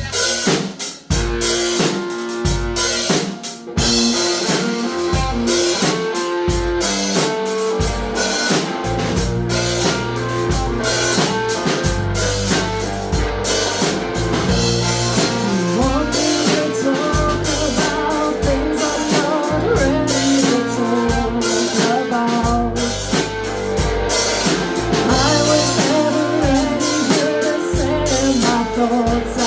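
Live rock band playing: drum kit keeping a steady beat with electric guitar, and a heavy bass line coming in about nine seconds in.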